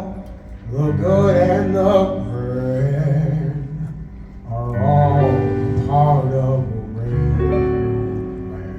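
Music: a male singer holds long sung notes with vibrato in several phrases over a country backing accompaniment.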